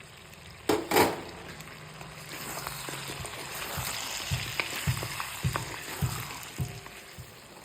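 Chicken and potato curry in a kerahi being stirred with a spatula, over a soft sizzle. Two loud clatters come about a second in, and the spatula knocks against the pan several times in the second half.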